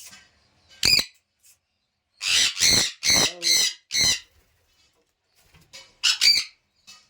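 Pet parrot squawking in short, loud calls: one about a second in, a quick run of five around the middle, and two more near the end.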